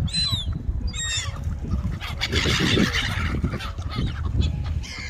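Pond waterfowl calling: several short calls near the start, another about a second in and one near the end, with a brief noisy burst in between over a steady low rumble.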